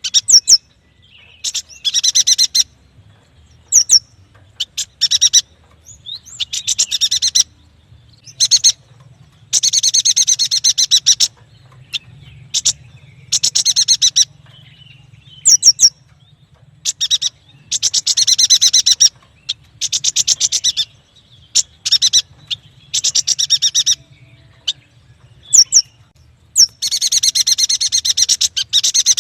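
Yuhina singing vigorously: repeated bursts of rapid, buzzy chattering notes, each about a second long, alternating with short sharp whistled notes and brief pauses.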